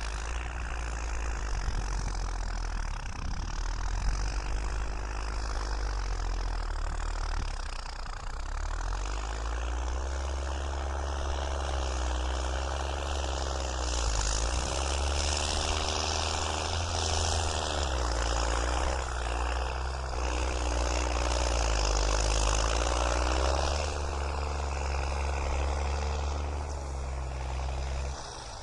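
New Holland TS6.125 tractor's diesel engine running while pushing soil, its pitch repeatedly dipping and rising as the load and throttle change.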